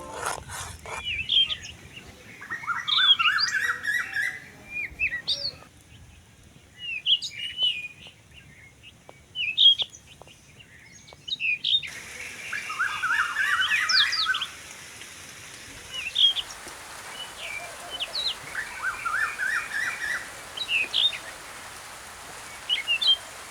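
Songbirds chirping in short, quickly repeated calls. About halfway through, a steady hiss starts up beneath them.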